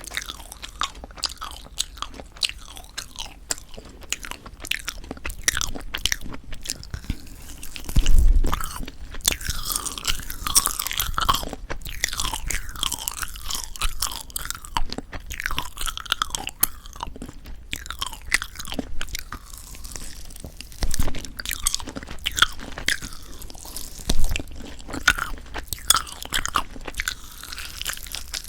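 Close-miked chewing of a tough, rubbery marshmallow pop: dense sticky clicks, smacks and squeaky squelches as it is bitten and worked. Two heavier thumps come about a third of the way in and near the end.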